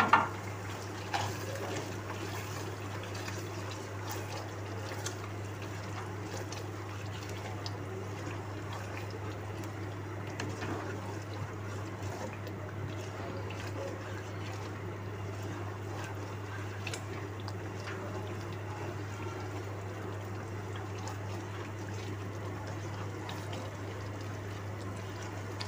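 Masala and crushed fried onions frying in hot oil in a pan, a steady sizzle with light scrapes as a spatula stirs them. A constant low hum runs underneath.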